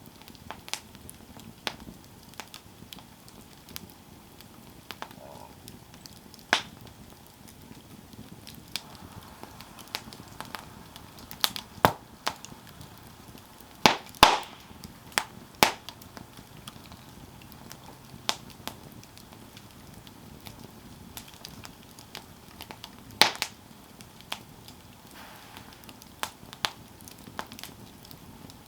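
Campfire burning with scattered crackles and sharp pops over a low steady hiss, the loudest pops coming in a cluster around the middle and once more near the end.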